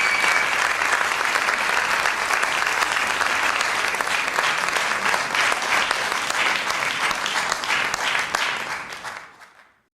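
Audience applauding with dense, steady clapping, a brief shrill whistle at the very start; the applause fades out near the end.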